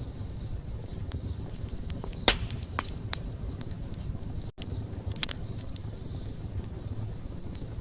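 Wood fire crackling: scattered sharp pops and snaps over a steady low rumble of flames, the loudest pop a little over two seconds in. The sound cuts out for a split second about halfway through.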